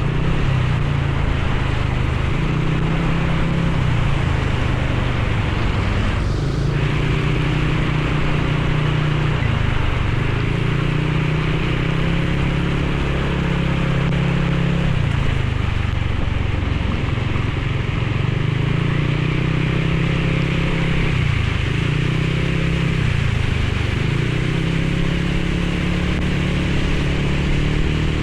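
Motorcycle engine under way, its pitch rising and dropping several times as the throttle opens and closes through the gears, over a steady hiss of wind and rain.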